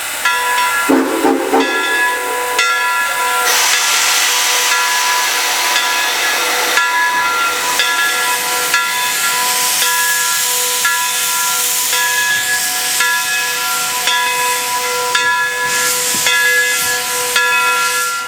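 Steam locomotive whistle blown in one long, steady sounding whose higher tones drop in and out, over loud hissing steam from the 0-6-0 switcher locomotive.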